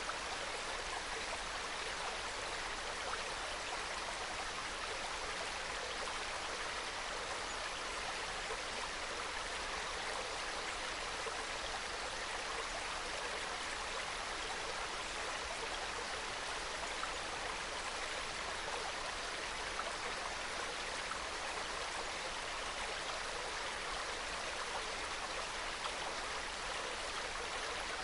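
Small mountain stream trickling and babbling over rocks, a soft steady flow.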